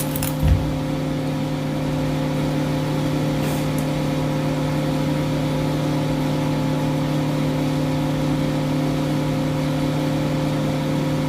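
Steady electric motor or fan hum with several constant tones, unchanging throughout, with a single light knock about half a second in.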